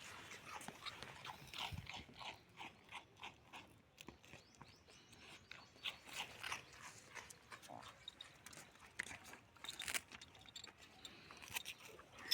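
Soft, irregular crunching clicks, about two or three a second.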